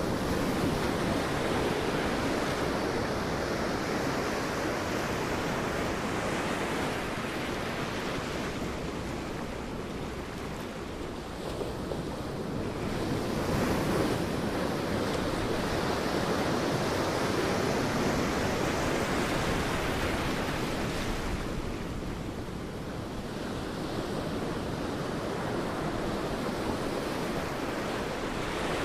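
Sea waves breaking and washing on a beach, a continuous rush of surf that swells and eases every several seconds.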